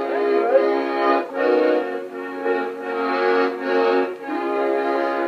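Piano accordion playing held chords, with brief breaks between phrases. It is an old home tape recording played back a little fast, so the pitch sounds higher than it was played.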